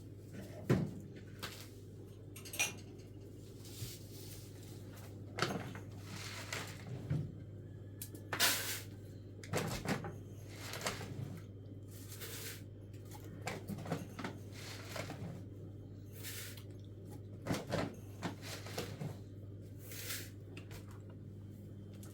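Scattered knocks, clatter and rustling of things being handled, over a steady low hum.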